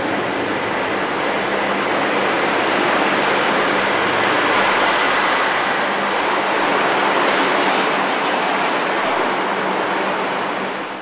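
Diesel multiple-unit passenger train running past close by on the station track: a loud, steady rumble of wheels and engine with a low hum, strongest as the carriages go by, cutting off suddenly near the end.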